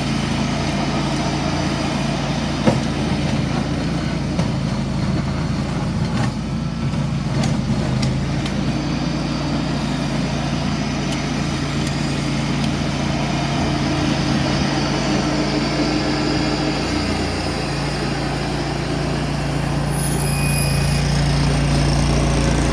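Ventrac 4500Z compact tractor's engine running steadily, a constant hum that grows a little louder near the end.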